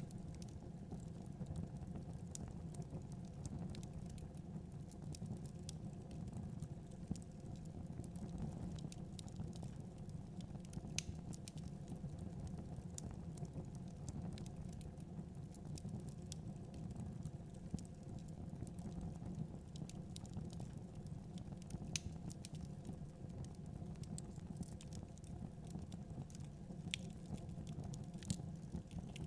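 Wood fire in a fireplace crackling, with a scatter of small clicks and now and then a sharper pop, over a steady low rumble.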